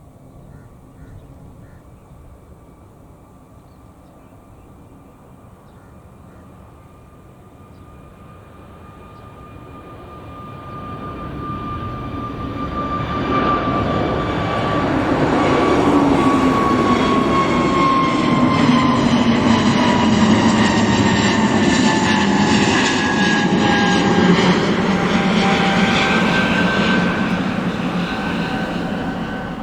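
Airbus A320neo jet engines at takeoff thrust. A thin fan whine grows into a loud, steady jet rumble over about twelve seconds, and its whining tones slowly glide lower as the airliner rolls past and climbs away.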